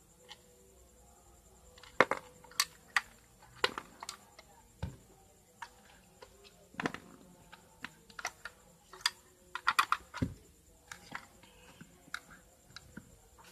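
Irregular light clicks and taps from handling the parts of an opened electric clothes iron, with a quick run of several clicks about ten seconds in.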